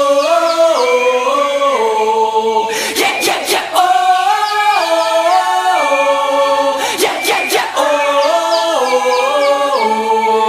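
Layered a cappella vocal harmonies, several voices singing wordless held notes that step together from chord to chord. Short sharp hits cut in about every four seconds.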